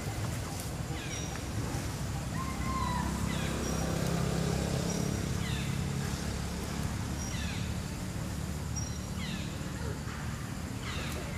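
A bird repeats a short falling call about every two seconds, with a few faint high peeps between, over a steady low outdoor hum.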